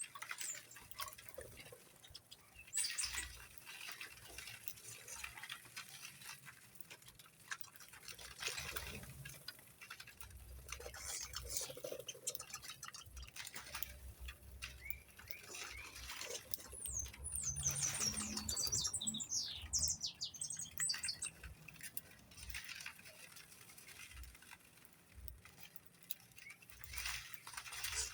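Birds chirping and squawking amid scattered pattering and clicking, with a run of quick high chirps about two-thirds of the way through.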